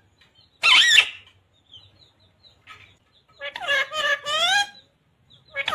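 Pet parrot calling and talking: a short, loud, harsh squawk just under a second in, then a high-pitched, voice-like mimicked phrase with bending pitch, which starts again right at the end.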